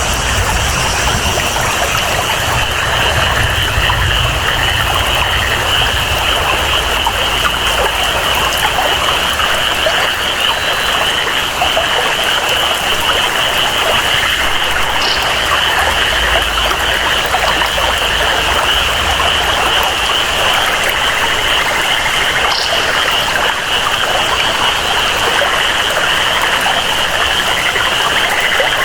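Rainforest ambience: steady rain and flowing water with a continuous high-pitched chorus of frogs running through it, a few faint short chirps on top.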